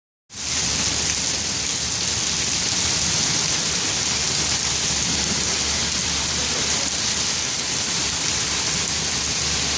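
Steady rain falling, an even hiss that starts just after the beginning and holds at a constant level.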